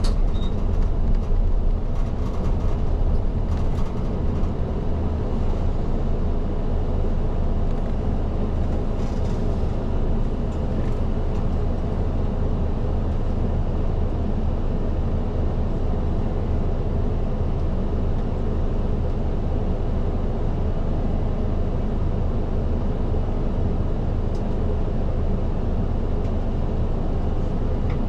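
Isuzu Erga city bus heard from inside near the front: its diesel engine drones steadily under an even hiss of road noise as the bus drives along.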